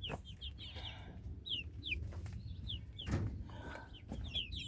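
Chicks peeping: a string of short, high peeps, each sliding down in pitch, repeating irregularly, with a knock about three seconds in.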